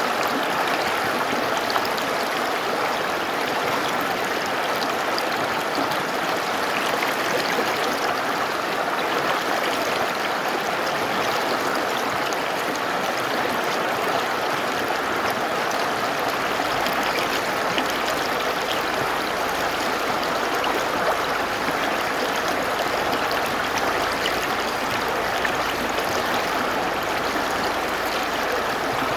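Mountain river rushing steadily over rocks, a continuous even flow of water.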